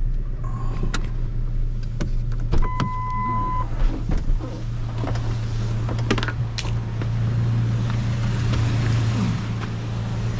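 Car cabin noise while driving: a steady low engine and road drone, with scattered clicks and knocks. About two and a half seconds in, a single electronic beep sounds for about a second.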